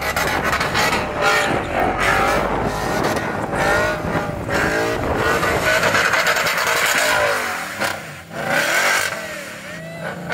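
Ford Mustang's engine revving up and down hard as it spins donuts, with the rear tires spinning and squealing on the asphalt. The engine eases off briefly about eight seconds in, then picks up again.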